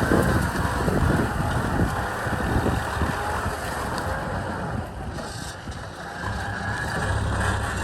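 Kubota M6040 tractor's diesel engine running, with wind buffeting the microphone. The engine settles into a steady low hum near the end.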